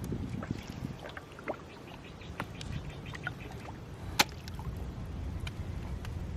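Scattered small knocks, clicks and water sounds as a gill net is handled at the river, over a low wind rumble, with one sharper knock about four seconds in.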